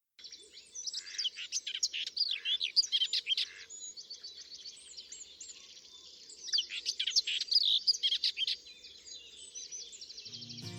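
Songbirds chirping and trilling rapidly in two busy bouts, with quieter chirps between; music begins right at the end.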